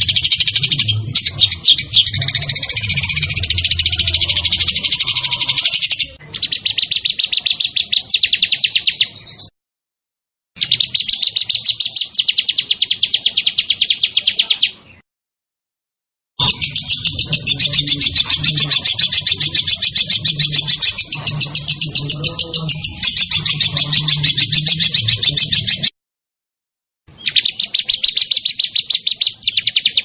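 Songbird singing long, fast rolling trills of sharp, rapidly repeated notes, in stretches that cut off abruptly into total silence three times.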